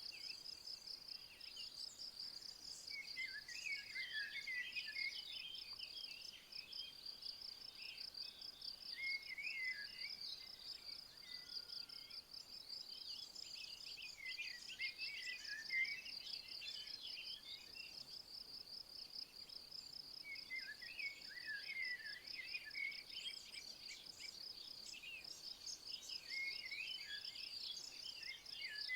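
Crickets trilling steadily in a rapid, even pulse, with small songbirds singing short twittering phrases every few seconds.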